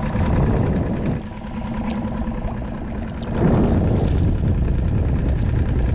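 Small outboard motor on a skiff running steadily at idle or trolling speed, a low continuous rumble. About three and a half seconds in a louder rush of noise comes over it.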